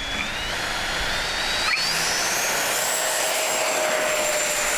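Twin 70mm electric ducted fans of a FlyFans J-20B model jet spooling up to full throttle for takeoff. A whine rises in pitch over the first three seconds, then holds steady over a loud rushing hiss.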